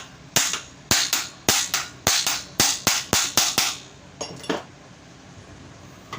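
Sharp knocks of metal being struck while the pedestal fan's motor housing is put back together: about a dozen in quick, uneven succession, then two lighter taps a little after four seconds in.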